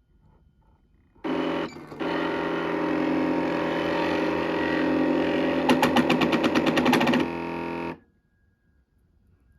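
Janome Secio computer embroidery sewing machine giving off a loud, steady grinding buzz for about seven seconds, with a fast rattle of clicks near the end. This is the abnormal 'ga-ga-ga' noise that the owner traces to the embroidery carriage gear trying to drive the carriage further in than it can go.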